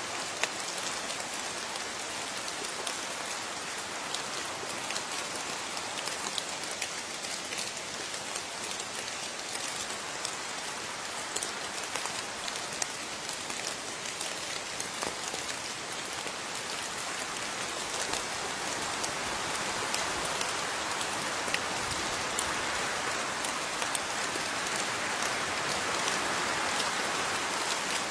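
Steady rain falling, with many separate drops ticking on a surface; it grows a little heavier in the second half.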